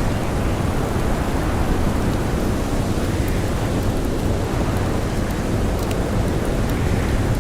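Blizzard wind blowing steadily, a dense, even rush of noise weighted toward the low end. A few faint crackles from a campfire are scattered through it.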